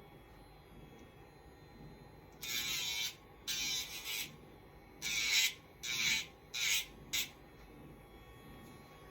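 Electric pet nail grinder running with a faint steady whine, its rotary bit grinding a dog's nail in about six short passes. Each pass is a gritty buzz, and the motor's pitch dips under the load. The last pass ends about seven seconds in.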